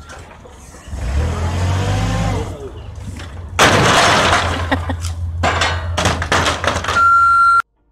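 Car crash: a loud sudden impact with breaking glass about three and a half seconds in, followed by clattering debris, over a low running vehicle rumble. A steady electronic beep sounds near the end, then the sound cuts off.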